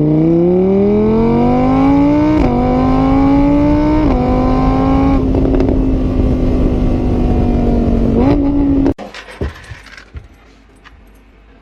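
A vehicle engine accelerating hard. Its pitch climbs and drops suddenly twice as it shifts up through the gears, then holds at a steady high pitch before it cuts off abruptly about nine seconds in. A few faint knocks follow.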